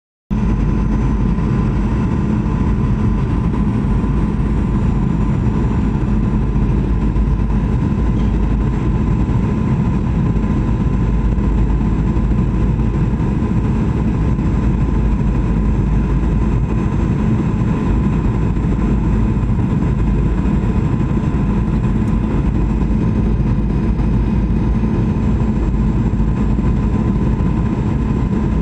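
Steady engine noise: a constant low roar with a fixed hum, unchanging throughout.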